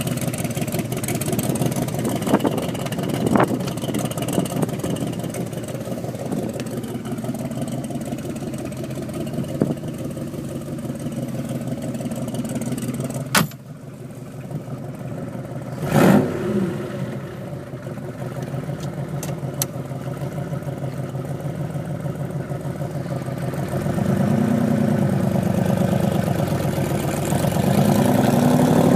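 Cobra replica kit car's engine running through its side-exit exhaust pipes at a steady idle. There is a sharp knock about halfway through and a thump a few seconds later. Near the end the car pulls away, and the engine note rises and falls twice and grows louder as it accelerates through the gears.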